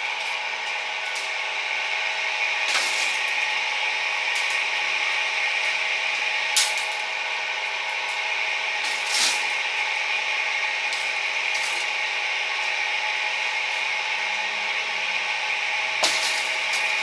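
Steady mechanical whirring that holds several fixed tones, with four sharp clicks or knocks at uneven gaps, about 3, 7, 9 and 16 seconds in.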